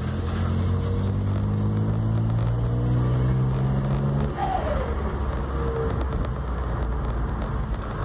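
Volkswagen Up TSI's turbocharged three-cylinder engine accelerating, its pitch rising steadily for about four seconds. Then the throttle closes, followed by a short falling turbo whistle.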